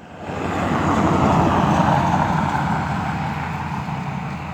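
A road vehicle passing by: its engine and tyre noise swells over about a second, then slowly fades, over a steady low hum.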